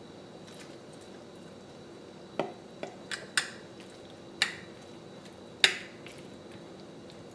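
A utensil clinking against a dish about six times while grinder salad is scooped onto a sandwich, the clinks coming in the middle of the stretch and the last one loudest.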